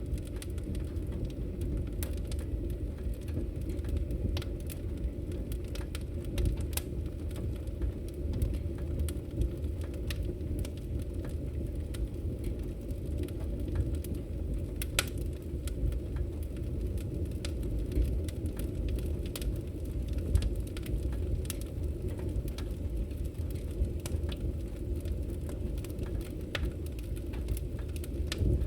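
Wood fire burning in a fireplace, crackling with frequent sharp pops scattered irregularly over a steady low rush.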